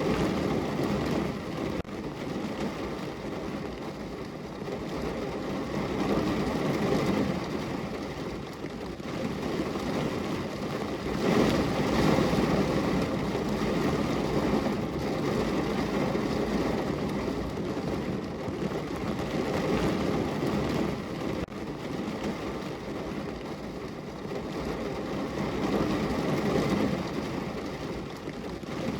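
Heavy rain falling on a car's roof and windows, heard from inside the car, a dense steady patter that swells and eases every few seconds.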